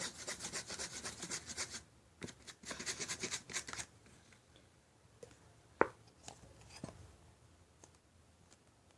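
A utensil scraping rapidly around a container as a lotion and Play-Doh slime mixture is stirred, about five strokes a second. The stirring breaks off briefly near two seconds and stops just before four seconds; a few light clicks and taps follow, one sharper about six seconds in.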